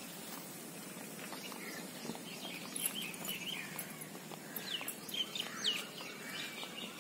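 Birds chirping outdoors: a run of short, high calls and quick rising and falling whistles, busiest in the second half, over steady background ambience.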